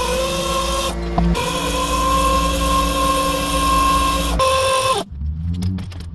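A power tool's electric motor running at a steady whine, broken off abruptly a few times, about a second in and again near the end.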